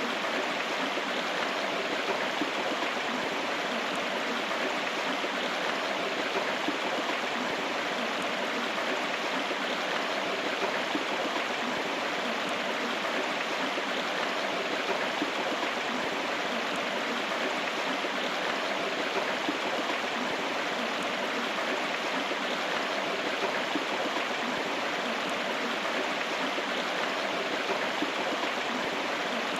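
River water flowing steadily, an even rushing of a stream over rocks.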